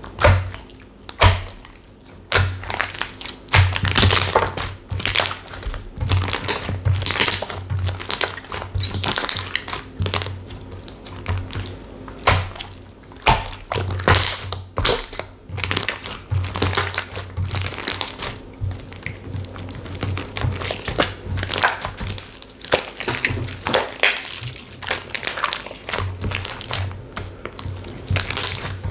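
Textured slime being pressed, poked and squeezed by hand, giving a run of irregular crackling, crunching and clicking sounds.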